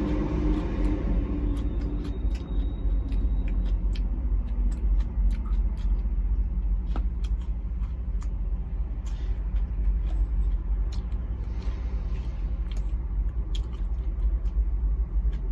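Steady low rumble of an idling truck, with scattered light clicks and taps over it.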